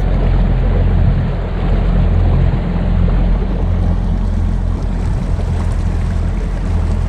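Boat motor running steadily under way, a constant low hum, with wind noise on the microphone.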